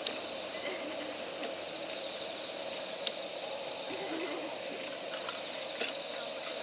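Wood fire burning in a fire stand, crackling with a few sharp pops, over a steady high-pitched tone in the background.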